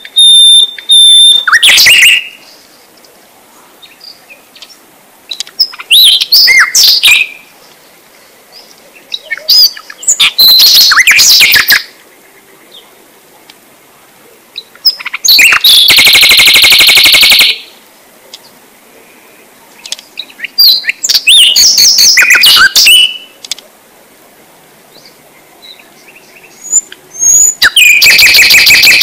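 A bird chirping and trilling loudly in bursts of one to two seconds, about every five seconds, with quiet gaps between. The loudest burst is a dense buzzy trill about halfway through.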